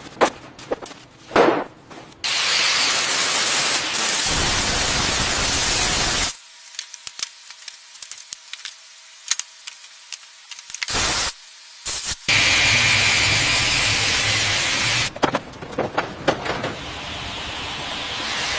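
Workshop sounds: two long, steady hissing sprays, about four and three seconds long, with stretches of scattered clicks and knocks before, between and after them.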